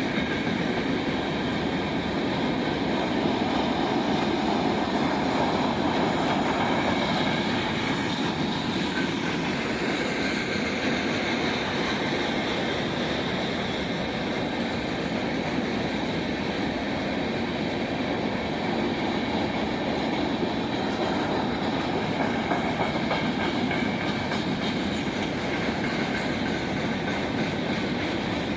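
Train rolling past, a steady rumble of steel wheels on the rails with clickety-clack and faint high ringing tones from the wheels.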